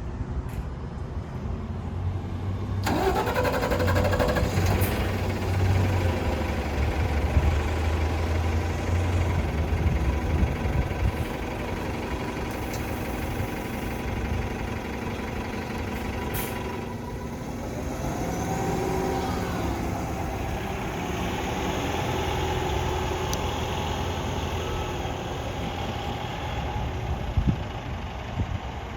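A Cummins Westport ISL G natural-gas engine in a Nova Bus LFS transit bus cranks and catches about three seconds in, its pitch rising as it starts, then runs heavily before settling into a steady idle. Its note changes with a rising whine a little past halfway, and there is a single sharp knock near the end.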